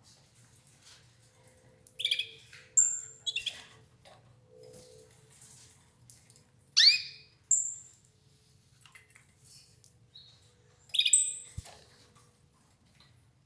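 Domestic canaries giving short chirps and call notes in scattered clusters, one a quick falling note about seven seconds in.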